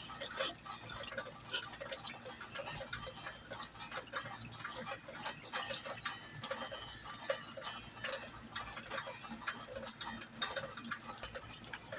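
Rain dripping: many light, irregular ticks and taps over a faint hiss.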